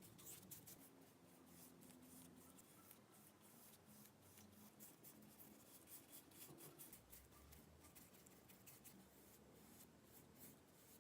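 Very faint, quick scratchy rubbing strokes, close to near silence.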